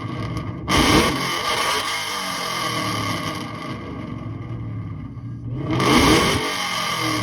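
Car engine revved hard twice, a sudden rev about a second in and another building near six seconds in, settling back to idle in between.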